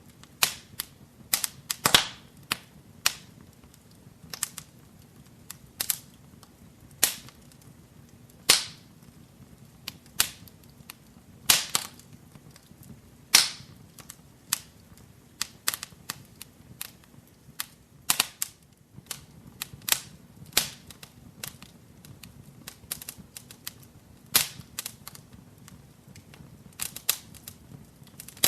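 Wood fire burning in a fireplace, crackling with irregular sharp pops and snaps, a few of them much louder than the rest.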